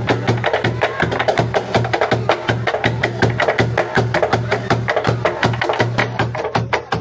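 Wooden sticks clacking in a fast, steady rhythm, several strikes a second, over music with a pulsing low beat.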